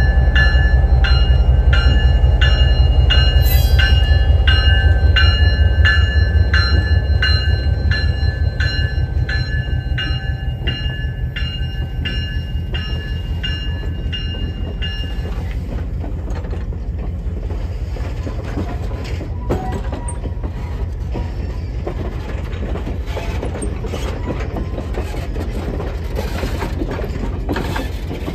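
EMD GP38 diesel locomotive passing slowly at close range, its 16-cylinder two-stroke engine running loudest at first and fading as it goes by. A bell rings steadily about twice a second until about halfway through. Passenger coaches then roll past, their wheels clicking over rail joints.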